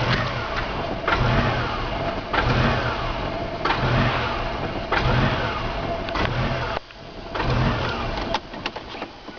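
Great Wall Safe engine idling unevenly: the idle surges in a regular cycle, about once every second and a quarter, each surge carrying a falling whine, with a longer lull about two-thirds of the way through. This is the strange idle behaviour the owner is showing.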